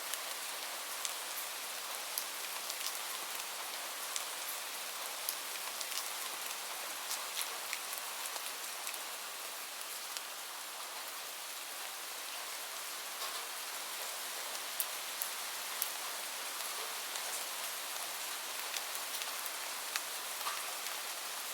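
Steady, gentle rain hissing, with a fireplace crackling and giving scattered, irregular sharp pops.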